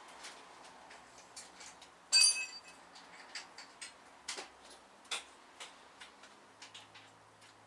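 Scattered light clicks and taps as tools and metal parts are handled, with one brief ringing metallic clink about two seconds in.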